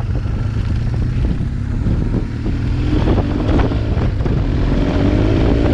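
BMW R 1200 GS boxer-twin motorcycle with an SC Project exhaust running under way, over heavy wind rumble on the microphone; about halfway in the engine note rises steadily as the bike accelerates.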